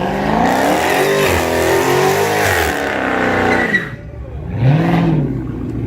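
Car engine revving hard, its pitch climbing and wavering for about four seconds over a loud rushing hiss, then a short rev blip near the end.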